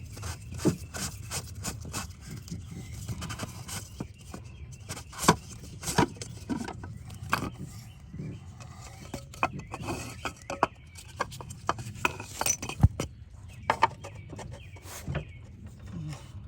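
Scattered sharp clicks, taps and clinks of plastic and metal parts being handled as the top fuel filter of a Ram 6.7L Cummins is removed by hand. A steady low hum runs underneath.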